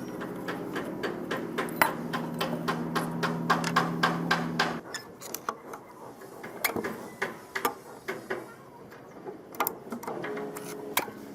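Repeated sharp metal clicks and taps, over a steady low machine hum that cuts off suddenly about five seconds in.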